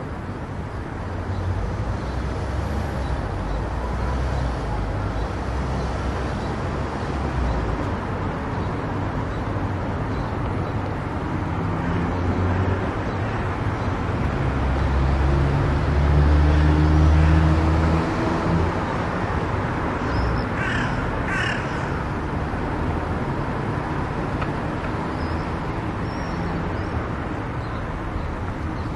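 Steady road and tyre noise with engine rumble from a car driving on a highway, swelling to its loudest around 16 to 18 seconds in. A brief higher-pitched wavering sound, like a squawk, comes about 21 seconds in.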